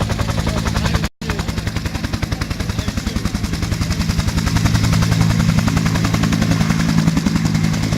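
Piston aircraft engine running close by, with a rapid, even pulsing over a low drone, growing slowly louder. The sound drops out briefly about a second in.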